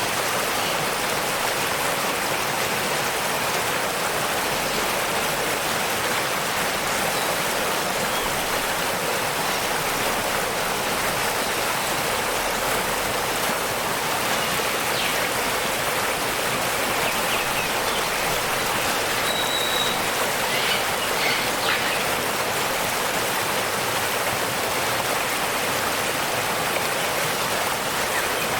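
Waterfall: falling water rushing steadily, with a few faint bird chirps in the middle.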